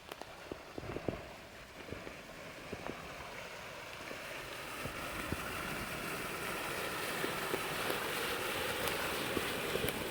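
Water flowing through a pond inlet channel: a steady rush that gradually grows louder, with scattered small clicks.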